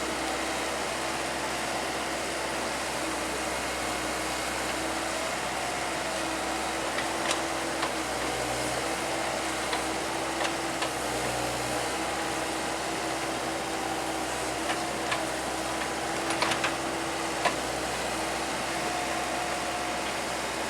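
Excavator diesel engine running steadily, with a faint hydraulic whine that shifts a little in pitch as it works. A few short sharp knocks come through, most of them in the second half.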